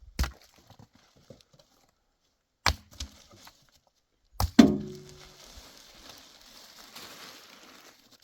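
Wood being chopped: four sharp blows, roughly two and a half seconds apart, the last two close together. The last blow is the loudest and rings briefly, followed by a few seconds of rustling hiss.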